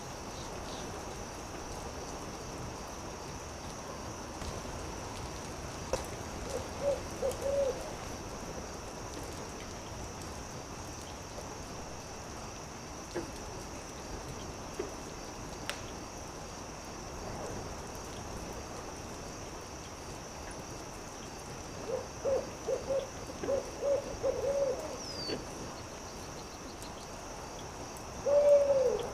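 Owl hooting in two quick runs of short hoots, about seven seconds in and again from about twenty-two seconds, then one longer falling hoot near the end. Under it runs a steady hiss with an occasional sharp pop from a crackling campfire.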